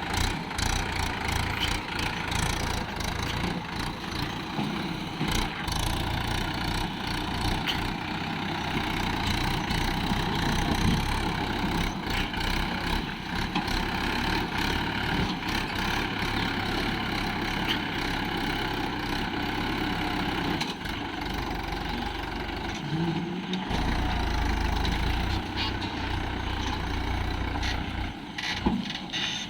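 Swaraj XM tractor's diesel engine running steadily while stuck in mud with a heavily loaded trolley.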